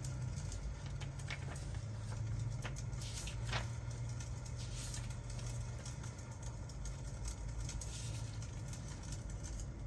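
Fireplace crackling, with scattered sharp pops over a steady low rumble and a soft rain-like hiss.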